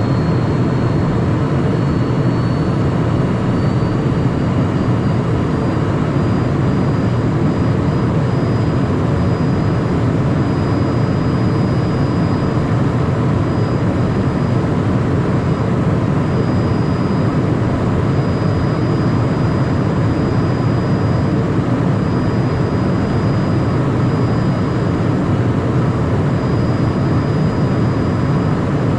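Steady cabin noise of a Cessna Citation Mustang light jet with its twin Pratt & Whitney Canada PW615F turbofans running: a loud, even rushing noise with a faint high whine that rises slightly over the first few seconds and then holds steady.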